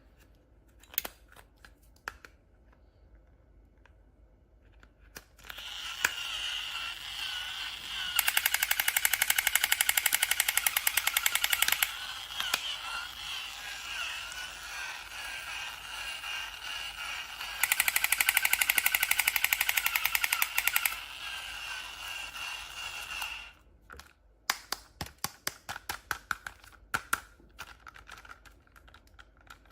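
Battery-powered toy playing an electronic rapid-fire gun sound effect for about 18 seconds, with two louder stretches of fast machine-gun rattle. Scattered sharp clicks and taps from handling come before and after it.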